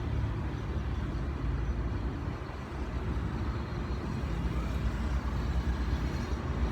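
Steady low rumble of a moving road vehicle's engine and road noise.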